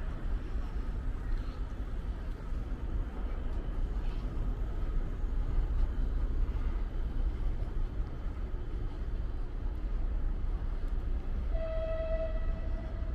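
Steady low rumble of trains and traffic around a railway station. About a second and a half before the end, a single horn note sounds briefly and steadily over it.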